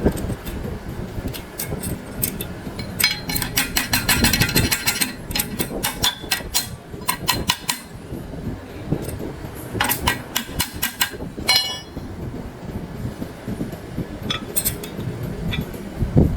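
Irregular metallic clinks and knocks of tools and machine parts being handled, coming in quick clusters with a short ringing after each strike.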